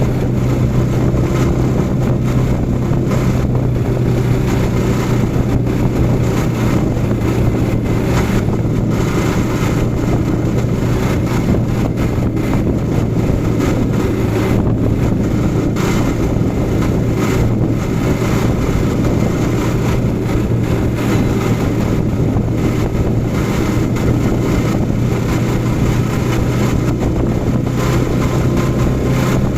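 Yamaha R15 V4 motorcycle's 155 cc single-cylinder engine running at a steady cruise, a constant drone that holds the same pitch with no change in revs.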